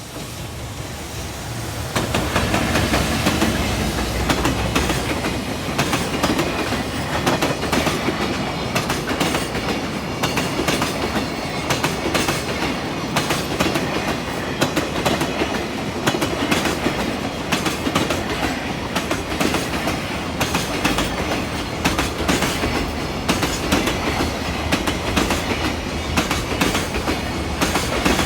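Freight train passing close by, its wagons' wheels clattering on the rails in a steady, rapid clickety-clack. The sound swells over the first two seconds, then holds loud.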